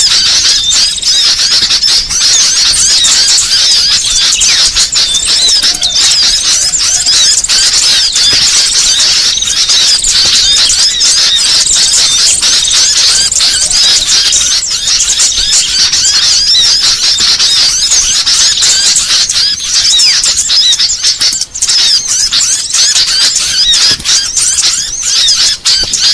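A dense, noisy chorus of many small songbirds chirping and trilling over one another without pause, high-pitched and loud. It is a bird-luring recording meant to draw in small birds.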